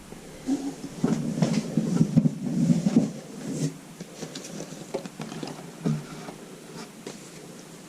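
Trading cards being handled and flipped through by hand, a quick run of irregular clicks and rustles that thins out to occasional soft ticks after about four seconds.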